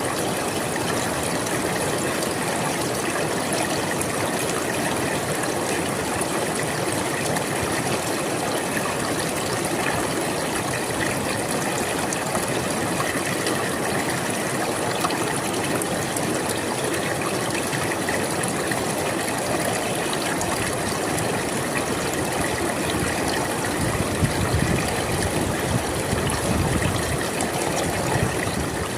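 River water flowing in a steady, continuous rush, swelling a little louder and deeper for a few seconds near the end.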